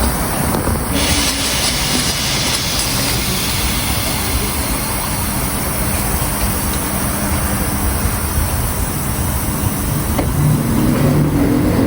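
Steady rumble of a train running, then about ten seconds in a rising whine as a train picks up speed.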